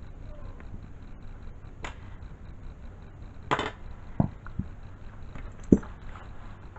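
A few scattered clicks and knocks with a short scrape in the middle, the sharpest knock near the end: small parts and tools being handled during hand work on the hoist's push-button control.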